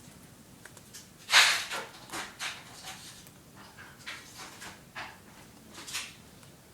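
A dog breathing and sniffing close by in short, irregular breathy puffs, the loudest about a second and a half in.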